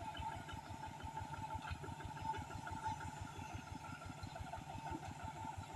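A faint engine idling steadily, with a quick, even chugging beat.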